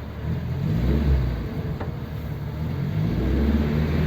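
Ford 100E's side-valve four-cylinder engine pulling the car away from a stop, heard from inside the car: the revs rise about a second in, ease off briefly, then rise again.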